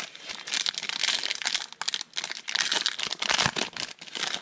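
Wrapper of a football trading card pack crinkling as it is handled and torn open.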